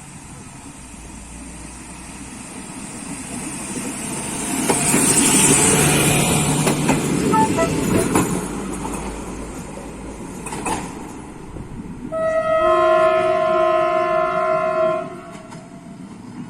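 A train running past, its noise swelling to a peak a few seconds in and fading, then the train horn sounding one steady blast of about three seconds that cuts off sharply.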